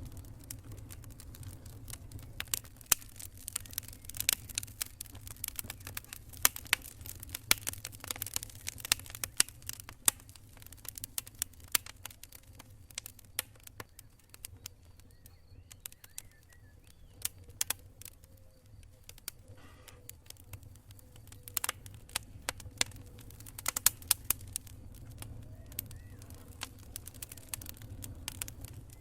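Wood campfire crackling, with frequent sharp irregular pops and snaps over a low steady rumble.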